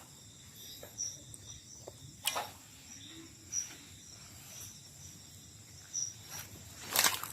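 Night insects in the rainforest: crickets chirping in short high chirps about once a second over a steady high drone. Brief crunching rustles break in about two seconds in and, loudest, near the end.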